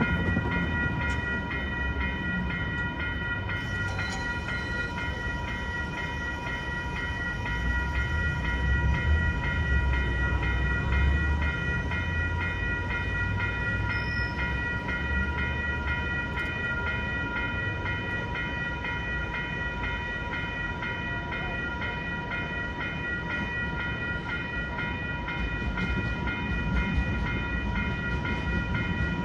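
Crossing bell ringing steadily while an MTS light-rail tram rumbles through the crossing. The rumble is loudest about eight to twelve seconds in.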